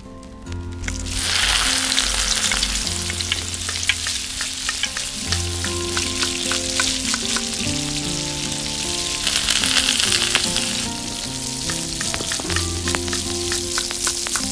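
Chopped onion sizzling in hot oil in a small stainless steel pot, with a crackle of fine spatters. The sizzle starts about a second in and grows louder for a moment around the ten-second mark, with a small spoon stirring near the end.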